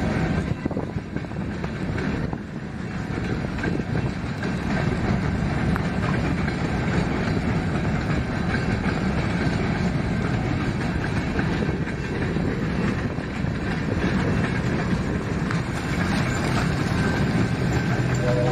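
Freight train of covered hopper cars rolling steadily past, their steel wheels running on the rails.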